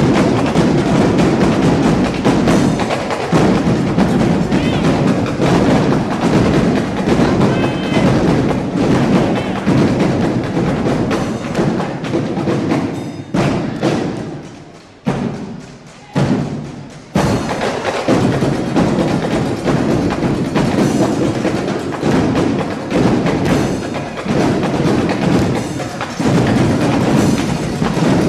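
Drum line playing a fast cadence of dense, rhythmic drum hits. About 13 seconds in the drumming thins and fades, then cuts back in sharply about 17 seconds in.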